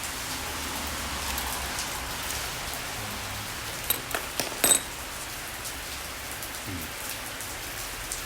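Steady hiss like falling rain, with a few sharp clicks a little before the middle.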